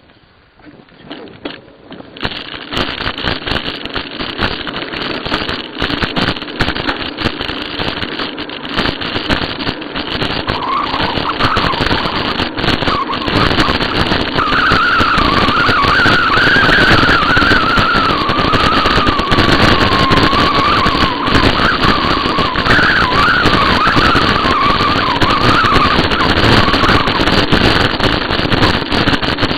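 Riding noise from a moving bicycle: a loud, steady rush of wind and tyres that builds up over the first few seconds, with a wavering high squeal joining about a third of the way in.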